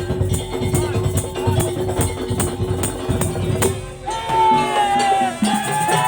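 Madurese tong-tong (daul) ensemble playing: a dense, fast, even beat of slit drums, drums and rattling percussion under a held tone. About four seconds in, a higher melody with sliding pitches comes in over it.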